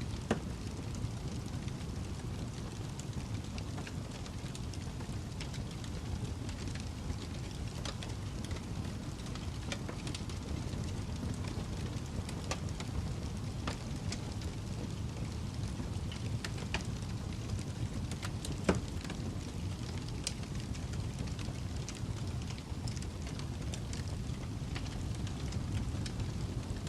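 Wood fire crackling: a steady low rumble with irregular small pops and snaps, and one sharper pop about nineteen seconds in.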